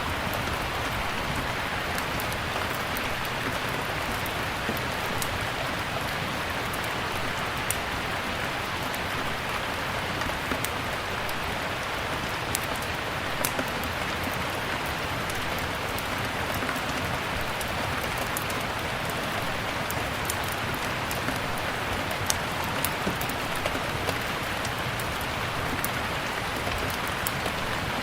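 Steady rain with scattered sharp crackles and pops from a wood fire burning in a fireplace, coming at irregular moments.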